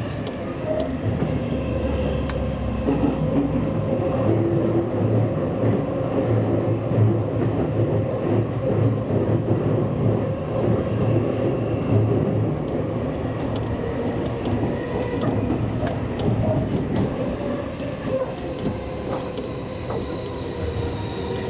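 Seibu Railway commuter train running on the line, heard from inside the car: a steady rumble of wheels on rail with faint motor tones. A faint high whine comes in near the end.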